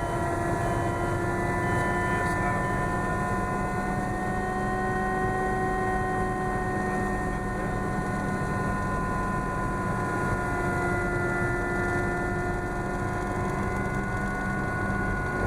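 Schweizer S-300CBi light helicopter in flight: steady drone of the four-cylinder Lycoming piston engine and rotors, with a strong low hum and several steady whining tones over it, holding an even pitch and level throughout.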